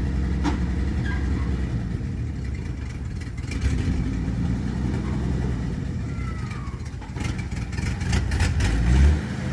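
1957 Chevrolet truck's six-cylinder engine running after years of sitting, its level rising and falling, with a run of sharp clicks late on and a low thump near the end.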